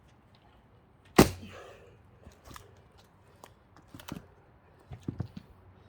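One heavy strike of a splitting tool into a thick pine log about a second in, followed by a few lighter knocks and clatters of wood and tool.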